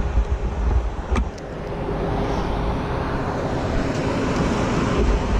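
Road traffic passing, a steady noise with a low, uneven rumble in the first second and again near the end. A single sharp click comes just over a second in.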